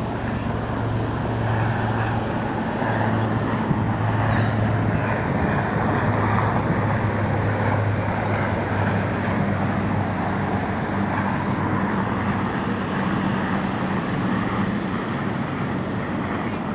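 Steady rush of ocean surf, with a low steady hum underneath.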